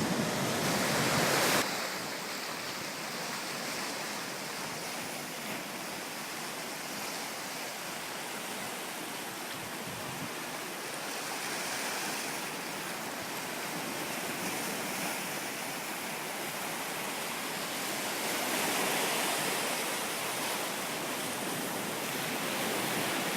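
Thunderstorm noise: a steady rush of heavy rain and wind, louder for the first second or two, then level.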